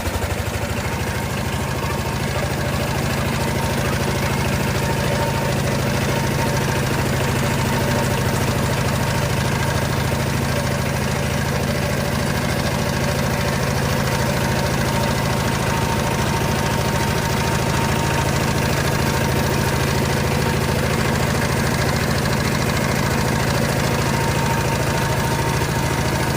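Single-cylinder diesel engine of a Sifang power tiller running steadily just after starting, with an even, rapid knock. It settles into a constant speed over the first couple of seconds and holds there.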